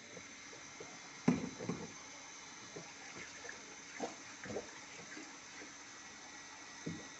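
Water splashing and sloshing in a washing machine tub, with a few short splashes about a second in, around four seconds in and near the end, over a faint steady hiss.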